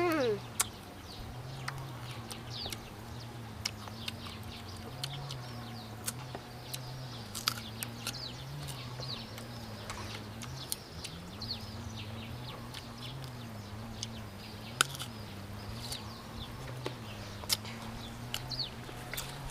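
Crisp clicks of someone chewing crunchy unripe green mango, with birds chirping repeatedly in the background over a steady low hum.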